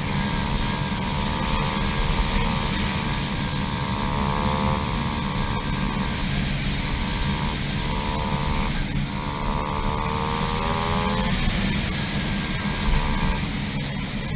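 KTM 500 EXC dirt bike's single-cylinder four-stroke engine running at a steady pace on a trail, its buzzing note drifting slightly in pitch and dipping out briefly a few times, under a constant rushing noise.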